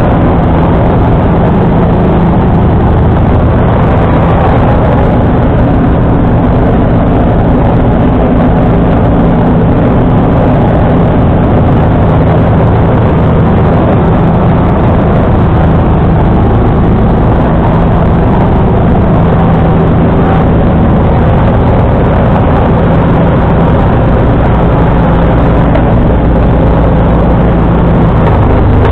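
John Deere 445 garden tractor's liquid-cooled V-twin engine running steadily, driving a 47-inch front-mounted snowblower.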